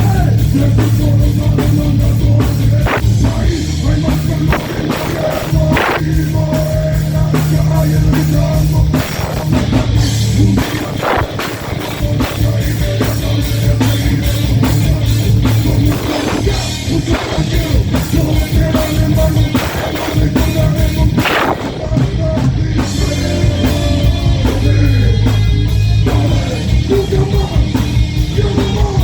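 Live rock band playing loud, hard-driving music with a pounding drum kit.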